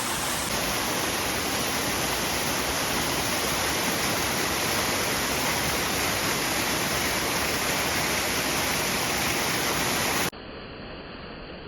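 Tall waterfall's water rushing in a loud, steady roar. About ten seconds in it cuts off abruptly to a much quieter, duller hiss.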